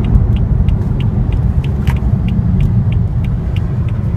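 2015 BMW M4's 3-litre twin-turbo inline-six running under way, heard from inside the car as a loud, steady low engine and road noise.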